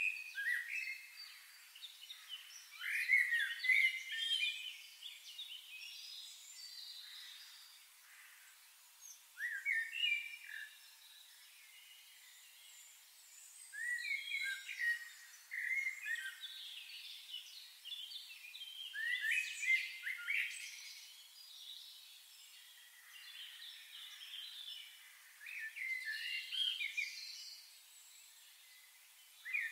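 Songbirds singing: short phrases of quick chirps and trills, one every four to six seconds, over a faint hiss.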